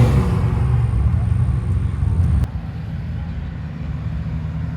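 Car engine running with a low, steady rumble just after a rev. A sharp click comes about two and a half seconds in, and the sound drops a little in level.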